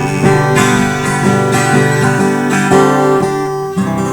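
Acoustic guitar strumming the closing chords of a folk song, with a last strum near the end left to ring out.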